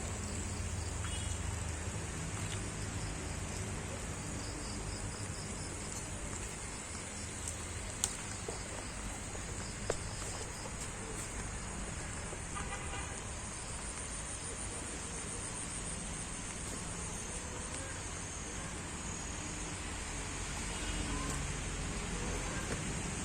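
Steady, high-pitched chorus of insects such as crickets or cicadas, over a low rumble, with two short sharp clicks about eight and ten seconds in.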